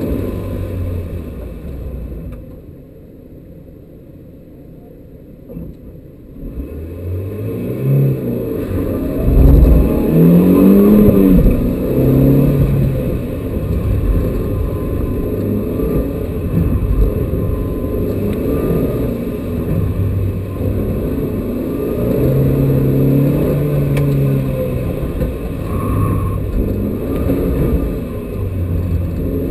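Renault Twingo Gordini's engine heard from inside the cabin. It drops quieter for a few seconds, then revs up with rising pitch from about six seconds in. It then runs hard for the rest of the run, its pitch rising and falling.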